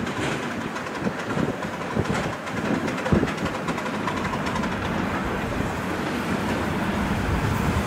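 Miniature railway train running along the track: a steady running noise with occasional wheel clicks and knocks, the sharpest about three seconds in.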